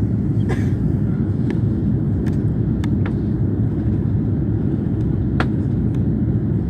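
Steady low rumble of an Airbus A340 in flight, with a few faint clicks above it.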